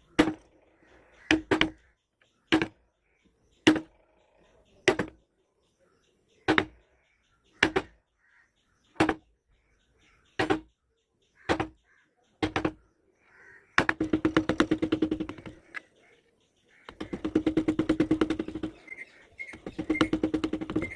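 Mallet striking a carving chisel into teak wood: about a dozen sharp, separate blows roughly a second apart, each with a short ring. They give way to stretches of rapid light taps many times a second.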